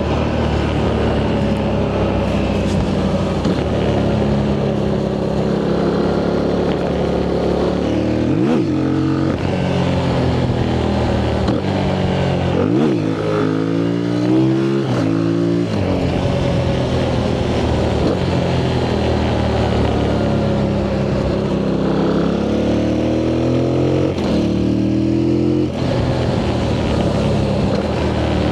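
Yamaha MT-07's 689 cc CP2 parallel-twin engine through its stock exhaust, accelerating and changing gear: the pitch climbs and drops back with each upshift, with quick sharp revs about a third of the way in and near the middle, and a longer climb that cuts back near the end.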